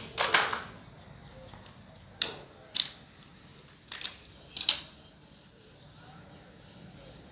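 Short, sharp clicks and clatters of small hard objects being handled, in about five separate bursts a second or so apart.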